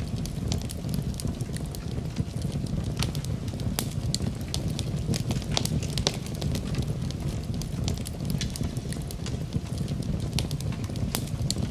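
Wood fire burning: a steady low rumble of the flames with frequent sharp, irregular crackles and pops from the burning wood.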